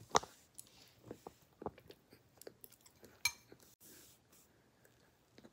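A person taking a bite of fried rice from a fork and chewing it, with small wet mouth sounds and a few short sharp clicks, the loudest just after the start and again about three seconds in.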